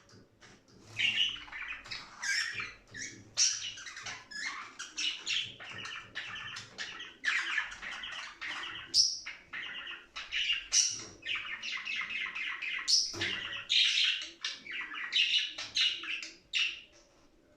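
Budgerigars chattering and warbling: a dense, continuous run of short high chirps and calls that fades out near the end.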